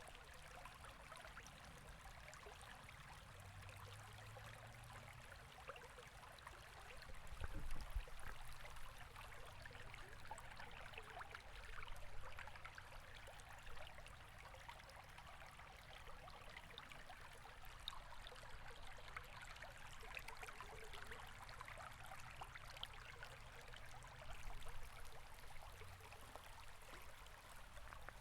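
River water flowing steadily, a soft, continuous rush with small swells now and then.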